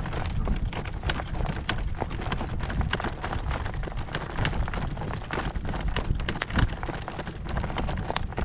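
A horse trotting in harness: a run of irregular hoofbeats and clicks. Under them, wind buffets the microphone with a steady low rumble.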